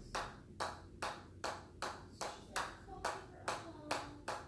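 Hammer strikes in a steady rhythm, about two and a half a second, each blow with a short ring after it.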